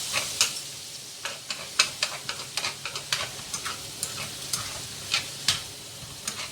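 Garlic frying in hot oil in a pan, sizzling steadily with many sharp, irregular crackles and clicks; the garlic is being fried until fragrant before the fish sauce goes in.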